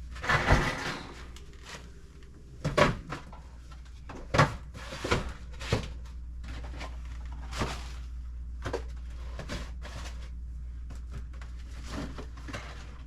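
Boxes and packages being handled and set down on pantry shelves: scattered knocks and short rustles, the loudest about half a second, three seconds and four and a half seconds in, over a steady low hum.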